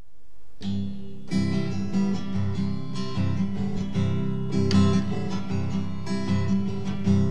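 Acoustic guitar strumming the instrumental intro of a song, coming in about half a second in.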